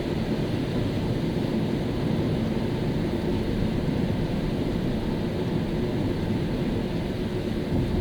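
A car driving on a wet road in the rain, giving a steady rush of tyre and road noise.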